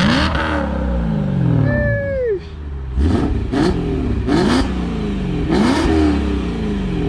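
BMW E92 M3 V8 through a full aftermarket valved exhaust with mid pipe and test pipe, revved in repeated blips, each a quick rise in pitch and a slower fall, with a sharp crack at each blip.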